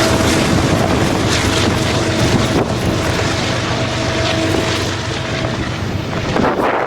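Freight train rolling past with a steady hum, heard through heavy wind noise on the microphone; the hum fades about five and a half seconds in as the wind gusts take over.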